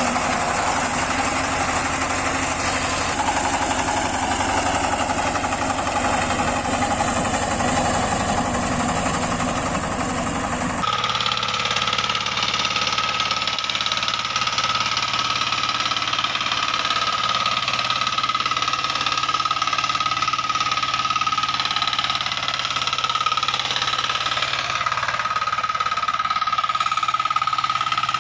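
Walk-behind tractor engines running. About eleven seconds in the sound switches abruptly from a rapid, pulsing engine to a steadier machine noise with a held high whine.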